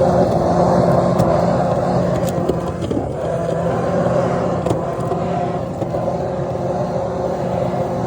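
A steady motor-driven machine running with a low hum and a rushing-air noise.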